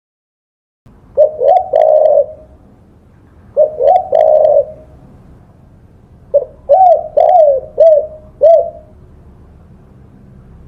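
Spotted dove (tekukur) cooing: three phrases of short, arched coos, the first starting about a second in, over a faint low hum.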